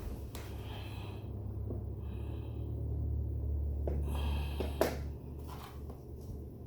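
Low steady household hum that swells louder through the middle and then eases back, with a few faint clicks and one sharper knock about five seconds in.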